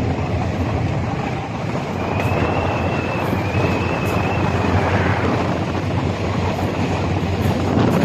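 Train running past or along the line, a steady rumbling noise with wind on the microphone. A faint, thin high squeal rises over it about two seconds in and lasts a few seconds.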